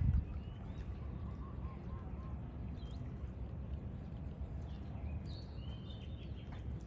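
Outdoor ambience: a steady low rumble with birds chirping now and then, a few short high chirps about three seconds in and again near the end. Around a second and a half in there is a quick run of four soft, lower notes. A brief louder low buffet comes right at the start.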